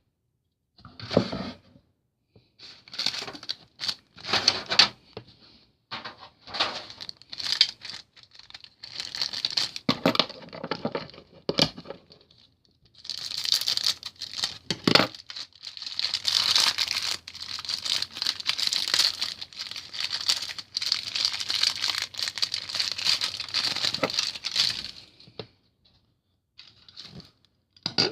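Packaging being torn open and crinkled by hand: a run of short tearing and crinkling bursts, then a longer stretch of continuous tearing and rustling that stops a few seconds before the end.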